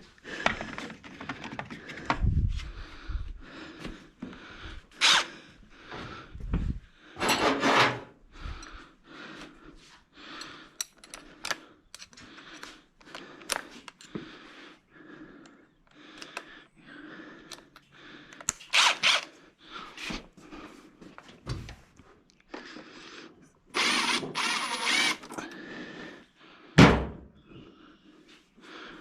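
Hand tools and engine parts being worked and handled during a turbo removal: irregular knocks and clicks, a few longer rasping stretches, and one loud thunk near the end.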